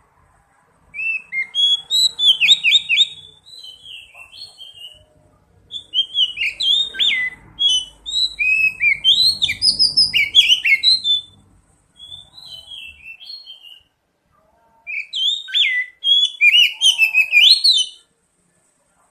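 Oriental magpie-robin (kacer) singing: fast, varied whistled phrases with quick up-and-down sweeps, in three loud bouts with softer phrases between.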